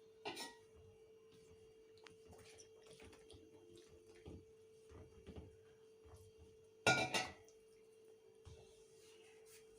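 A steady faint hum-like tone under scattered knocks and clatters, with a louder double clatter about seven seconds in.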